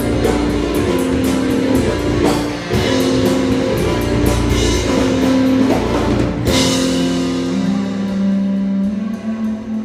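Live instrumental piano and cajon playing fast, hard-hit phrases, ending on a loud accented hit about six and a half seconds in; a held chord then rings and slowly fades, like the closing chord of the tune.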